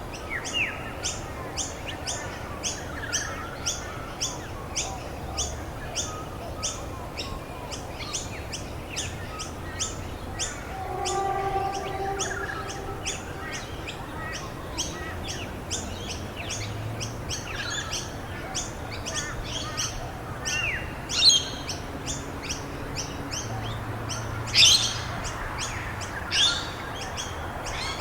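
Birdsong over a steady hiss of rain: one bird repeats a short high chirp about two or three times a second while other birds call around it, with two louder, sharp calls about two-thirds of the way through.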